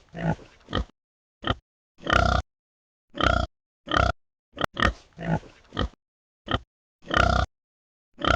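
Wild boar grunting: a string of about a dozen short grunts, loud and separated by silent gaps.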